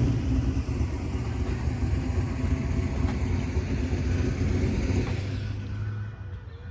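A car engine running with a steady deep note, fading out about five to six seconds in.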